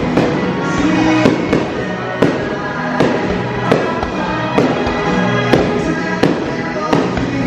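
Fireworks going off in a quick run of bangs, one every half second to a second, with music playing underneath.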